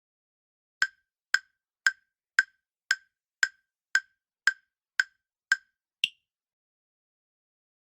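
Countdown-timer ticking sound effect: ten short, sharp ticks at about two a second, then one higher-pitched click that closes the count.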